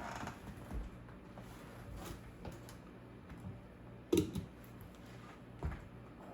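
A few scattered clicks and knocks of small hard objects being handled, the loudest about four seconds in.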